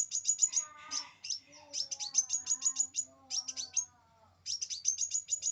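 Sunbird song: fast, tightly packed trains of high, downward-sliding chirps, about eight a second, repeated in bursts with short gaps between them. Fainter, lower warbling notes run beneath the trills in the middle.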